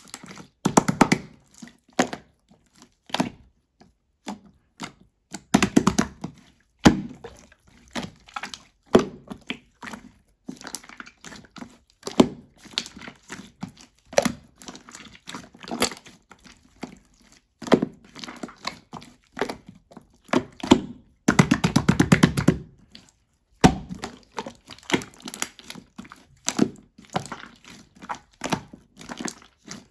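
Hands squeezing, stretching and pressing slime: irregular runs of sticky clicks, pops and squelches with short pauses between, and a longer squishing stretch about two-thirds of the way in.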